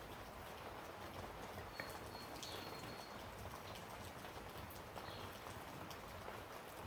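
Faint, scattered light clicks and taps from small carburetor parts and tools being handled on a workbench, over a steady low hiss. A brief high thin whistle sounds about two seconds in.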